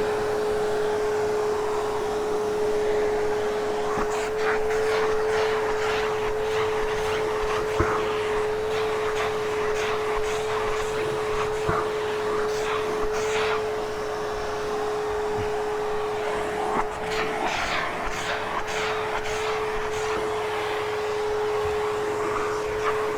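Hoover Hushtone vacuum running steadily with a constant whine. Its hose tool is working over hairy stair carpet, with frequent short scratchy strokes and clicks.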